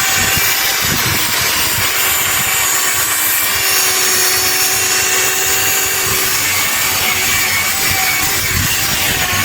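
A plastic headlight lens being polished with polishing compound: a loud, steady rubbing noise with faint steady tones running through it. This is the polishing stage after wet sanding up to 1200 grit.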